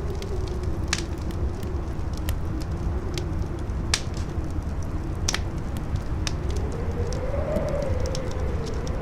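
Campfire crackling and popping, with sharp snaps scattered through, over a low, steady wind rumble. A howling wind tone wavers along and rises in pitch in the second half.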